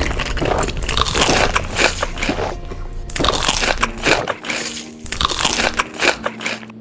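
Close-miked crunching and biting of crisp food, a run of loud irregular crunches, with background music that comes through more plainly near the end.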